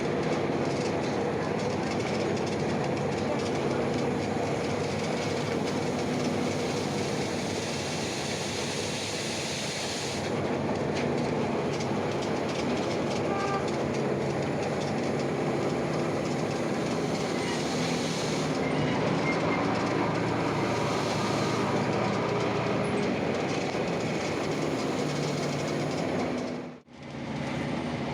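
Ikarus-260 city bus heard from inside while on the move: its diesel engine running under a steady rattle and road noise, the engine note shifting a couple of times. The sound drops out briefly near the end.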